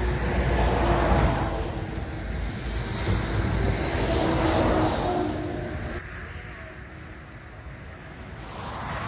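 A motor vehicle engine running, swelling louder twice and easing off after about six seconds, with heavy low rumble.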